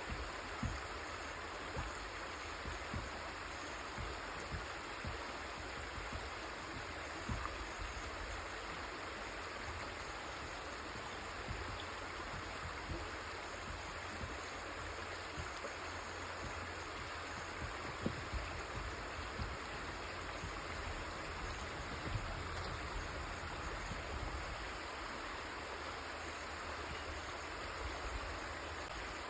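River water flowing in a steady rushing wash, with scattered soft low thumps.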